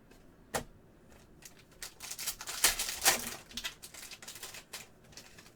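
Trading cards being handled by hand: a single click about half a second in, then a quick run of brushing, sliding and tapping strokes as cards are shuffled through, busiest near the middle.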